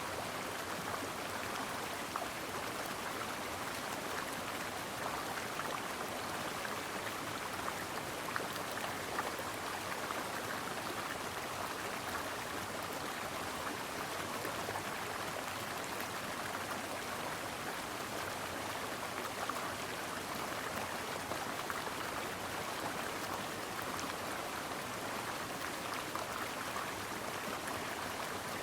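Stream water flowing steadily, an even rush of water with no change or break.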